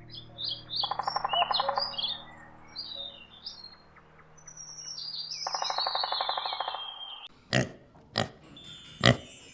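Small birds chirping in quick, high notes, with a buzzy rapid trill about a second in and again about five and a half seconds in. A few sharp clicks near the end.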